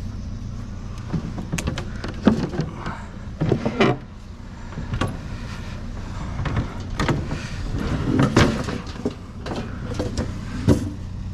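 Irregular knocks, clanks and scrapes of discarded items being shifted and handled in a dumpster, over a steady low hum like an idling vehicle engine.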